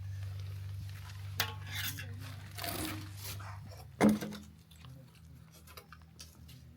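Bowls and spoons clinking and scraping as food is dished out, with a sharp knock about four seconds in. A steady low hum under the first part stops at the knock.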